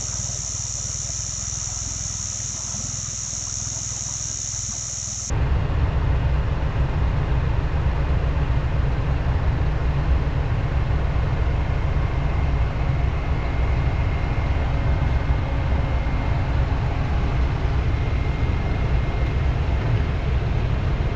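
For about five seconds, a steady high insect drone sits over a low engine hum. Then it cuts abruptly to the louder, steady low rumble of the Isuzu NPS 4x4 truck driving along a track.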